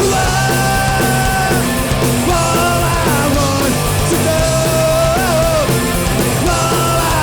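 Live punk band playing loud, with distorted guitars, bass and drums. A melody of long held notes bends in pitch between the sung lines.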